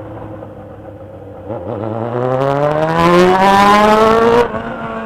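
Motorcycle engine accelerating hard, its pitch climbing steadily for about three seconds, then the high-revving sound cuts off sharply as the throttle closes, leaving a steady lower engine note.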